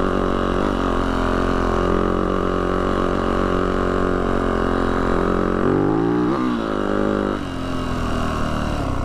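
Yamaha YZ450F dirt bike's single-cylinder four-stroke engine running on a trail climb. About six seconds in it revs up and back down, then settles lower.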